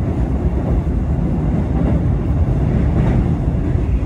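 Executive-class passenger train running at speed, a steady low rumble heard from inside the coach.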